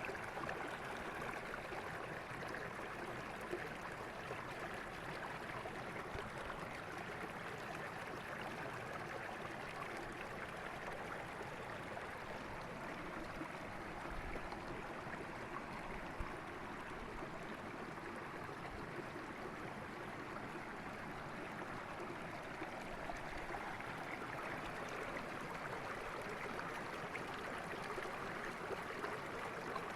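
Mountain river flowing over rocks: a steady rushing and gurgling of water, with a couple of faint low knocks about halfway through.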